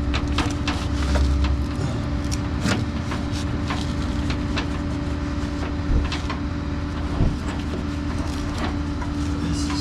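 Vehicle engine idling with a steady hum, under scattered metallic clicks and clanks of tie-down work, with two sharper knocks about six and seven seconds in.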